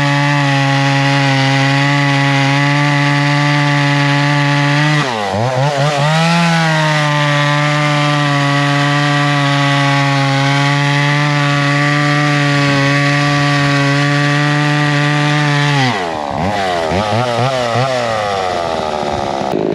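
Vintage two-stroke chainsaw with a 32-inch bar running at full throttle while cutting hardwood, its pitch steady. About five seconds in the engine note drops and climbs back up, and near the end it falls off and revs up and down several times.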